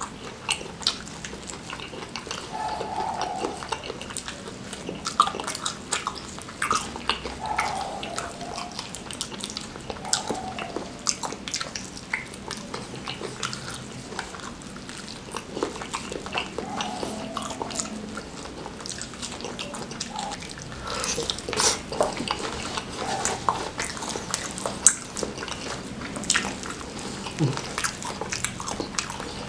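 Close-miked chewing of fried chicken coated in wet chili sambal: wet smacks and crisp clicks of the mouth and lips, busiest near the end, with a few brief vocal sounds between bites.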